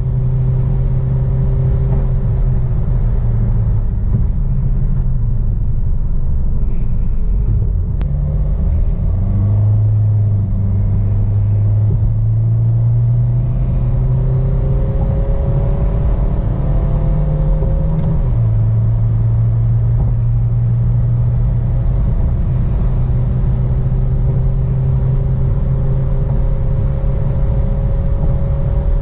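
Remapped Maruti Suzuki Baleno 1.3 DDiS four-cylinder turbodiesel accelerating hard over a steady low rumble. Its note climbs slowly through each gear and drops back at several gear changes.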